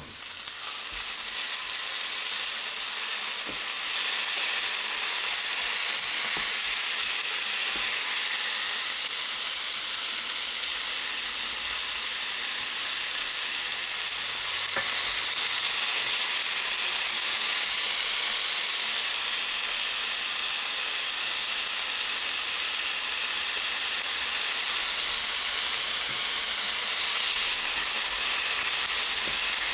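Food sizzling steadily in a hot frying pan, the sizzle swelling up within the first second and then holding even.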